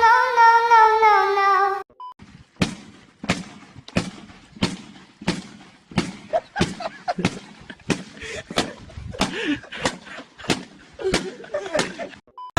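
A singing voice over music for about the first two seconds. After a short beep, a long run of sharp knocks or pops follows, evenly spaced at about one every two-thirds of a second. Some voice sounds mix in among the pops, and a second short beep comes near the end.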